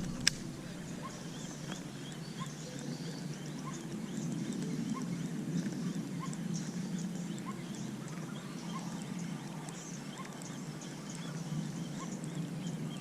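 Outdoor ambience with short animal calls repeating about once or twice a second over a steady low background, and one sharp click just after the start.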